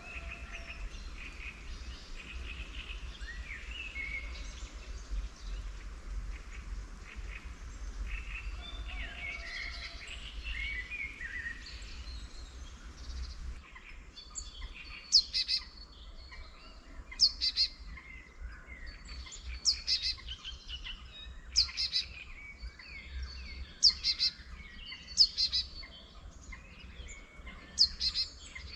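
Wild songbirds chirping over a steady low background. About halfway through the scene changes, and a nearer bird sings loud, short, repeated phrases every second or two.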